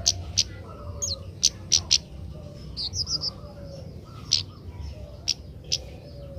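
A kemade bird gives short, sharp high chip calls at irregular intervals, roughly one or two a second. About three seconds in there is a quick run of three notes. A steady low hum runs beneath.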